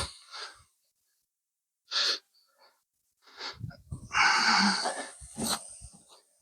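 A man's heavy, gasping breaths in separate bursts, several seconds' worth with short silences between, from the effort of dragging a canoe uphill.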